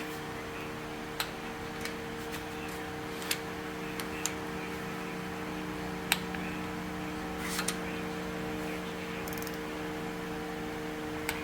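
Steady machine hum, like a shop fan, runs throughout. Over it come a few scattered sharp clicks and taps of hand tools being handled at the engine.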